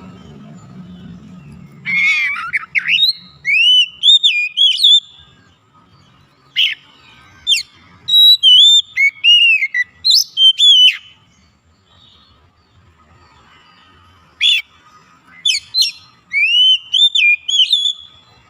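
Oriental magpie-robin (kacer) singing: loud, clear whistled phrases of rising and falling notes, in three bursts with short pauses between them.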